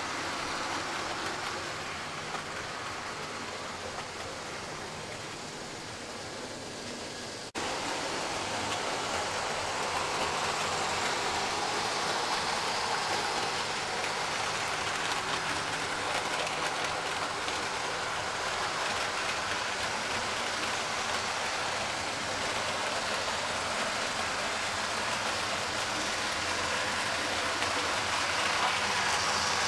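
Model railway locomotives running on track: a steady whirr of their old electric motors and the rolling of wheels on rail, with a faint hum. The sound jumps suddenly louder about seven and a half seconds in.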